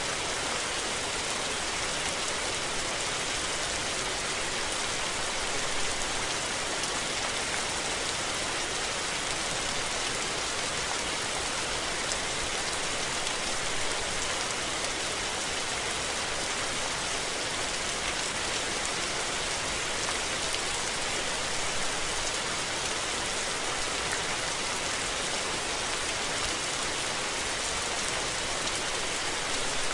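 Steady rain falling, an even hiss of many drops on surfaces with no thunder.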